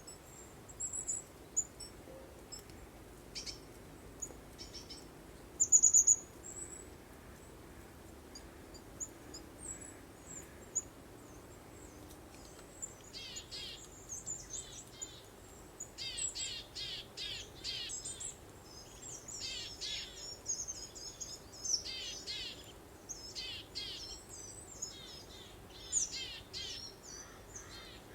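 Small songbirds chirping and singing: quick, high, rapidly repeated notes, with one louder call about six seconds in and a busier run of overlapping song from about halfway. A faint steady hiss sits underneath.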